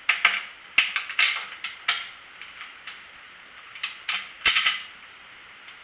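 Sharp clicks and short rattles of a bolt and the handle parts of a pressure washer being worked into place, several knocks in the first two seconds and another cluster about four and a half seconds in.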